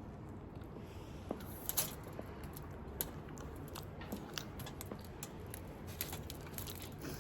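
Biting into and chewing a Dubai chocolate croissant, with scattered short crackles of the crisp pastry over a low room hum.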